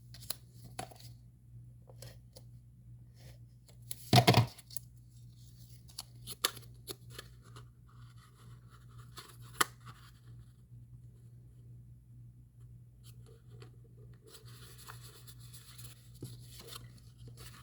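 Paper and cardstock being handled on a craft table: soft rustling, scraping and small taps, with one louder knock about four seconds in, over a steady low hum.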